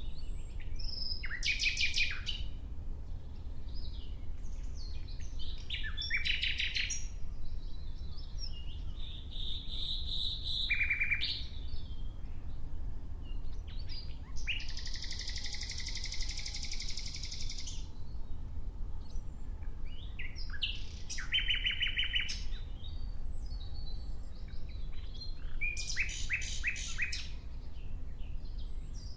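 Nightingale singing: about six separate phrases of rapid repeated notes and trills, with pauses of a few seconds between them and one longer phrase in the middle. A steady low rumble runs underneath.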